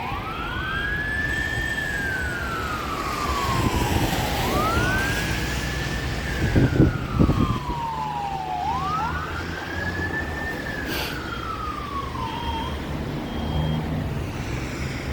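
Fire engine's siren wailing in slow cycles, each a quick rise and a long fall, three times before it stops about two-thirds of the way through. A brief loud low blast comes about seven seconds in, over a steady engine rumble.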